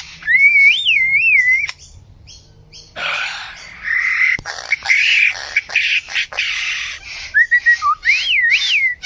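A bird singing varied calls: clear whistled notes that glide up and down, and in the middle a run of harsher, scratchy calls with sharp clicks.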